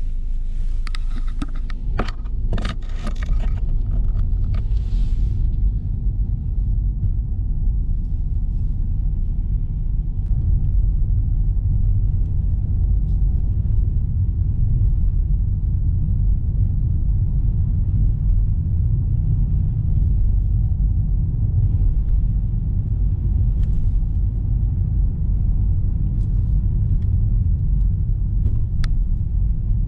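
Steady low rumble of a car driving, its tyres and engine running evenly. A few brief clicks and a short hiss come in the first five seconds.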